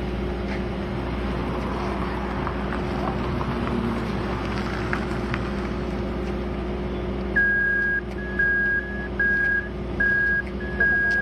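Heavy road-construction machinery engines running steadily. From about seven seconds in, a reversing alarm beeps on one high pitch, about five beeps at roughly one every 0.8 seconds.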